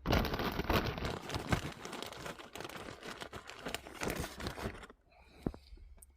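Crinkling and rustling of a bag being handled, with many small clicks, for about five seconds before it stops.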